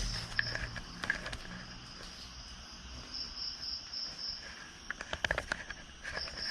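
Night insects chirping in a steady, pulsing high trill, with a few sharp clicks a little past five seconds in.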